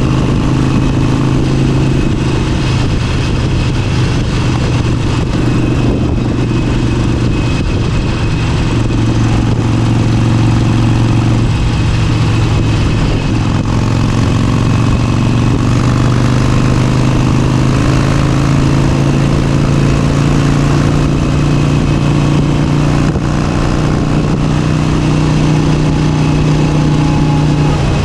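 Motorcycle engine running steadily at road speed, its pitch drifting slightly up and down with small throttle changes.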